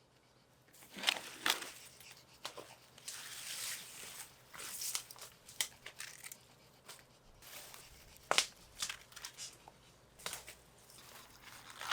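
Irregular rustling and crinkling with a series of sharp snaps and crackles, like things being handled, crushed or torn by hand.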